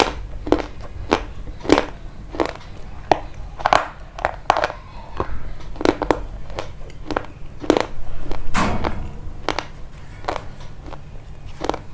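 Crunchy food being chewed close to the microphone: a steady rhythm of sharp crunches, about one and a half a second, with a longer, louder crunch about eight and a half seconds in.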